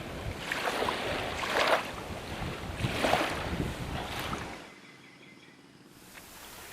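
Sea waves washing in surges, with wind noise on the microphone; it drops to a quieter wash about two thirds of the way through.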